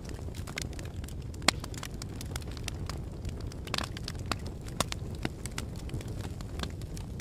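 Fire crackling: a steady low rumble of flames with irregular sharp pops and snaps, one louder pop about a second and a half in.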